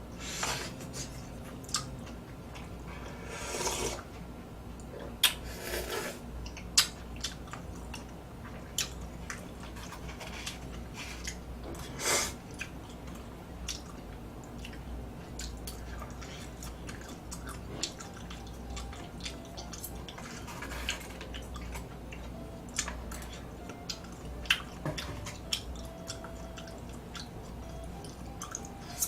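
A person chewing and eating food close to the microphone: many short, irregular mouth clicks and smacks, with a few longer noisy bites now and then.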